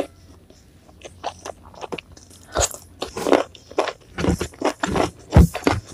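Close-miked eating sounds: crunchy food being bitten and chewed, an irregular run of sharp crunches that grows louder and denser after about two seconds.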